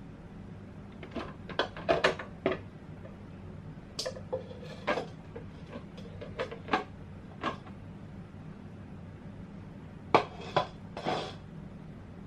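Household items being taken out of a cabinet: clusters of sharp clacks and knocks as containers and objects are picked up, bumped and set down, in three bursts with pauses between.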